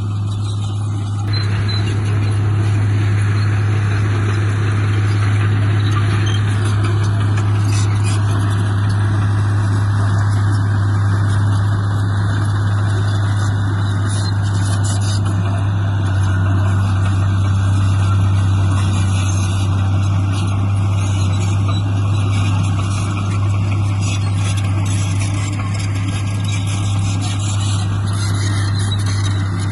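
Diesel engine of a heavy earthmoving machine running steadily, a loud low hum with a rough mechanical noise over it.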